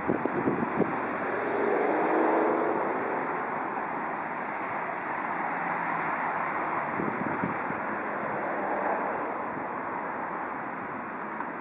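Freight train rolling away over the rails: a few sharp wheel clicks in the first second, then a steady rumble that slowly fades as it recedes.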